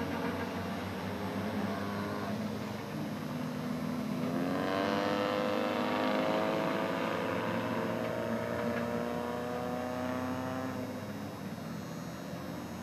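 Skid plate race cars' engines running, with one engine revving from about four and a half seconds in, its pitch climbing slowly and steadily until it fades near the end.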